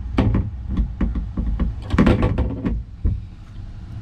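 Irregular knocks and clattering against a plastic kayak as a rod and gear are handled, the loudest cluster about two seconds in, over a steady low wind rumble on the microphone.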